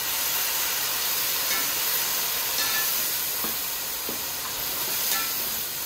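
Onions, ginger-garlic paste and yogurt sizzling in hot oil in a pot on a high flame while being stir-fried: a steady frying hiss.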